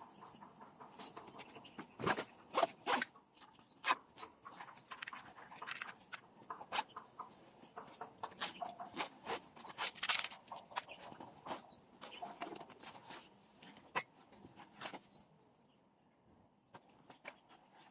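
Irregular clicks, taps and knocks of objects being handled, over a steady high-pitched drone.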